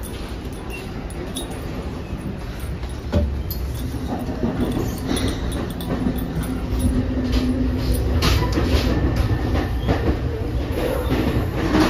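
Moving NJ Transit Multilevel passenger coach heard from inside: a steady low rumble of the running train, with a single knock about three seconds in. A steady hum comes in soon after, and a run of sharp clicks and knocks from the wheels and track fills the second half.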